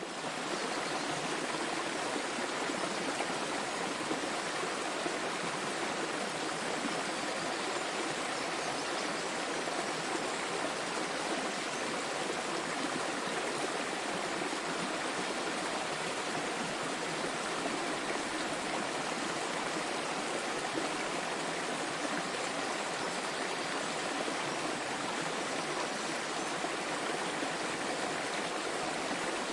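Small waterfall flowing: a steady, even rush of falling water.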